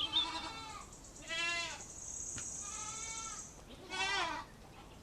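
Young goat kid bleating four times, each call a short, quavering bleat, the third one fainter.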